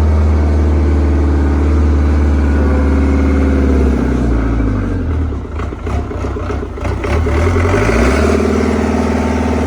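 Diesel engine of a CAT 307SSR mini excavator running steadily after its fuel injection pump was reinstalled. About four seconds in its speed drops, with a few knocks, then picks back up about eight seconds in.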